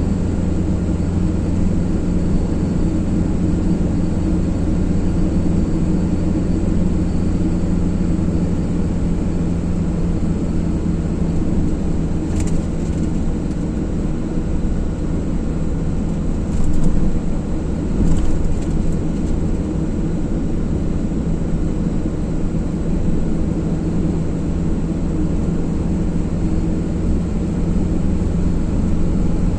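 Car driving at a steady speed: continuous engine drone and road noise with a low hum. A few brief, higher-pitched noises come in around the middle.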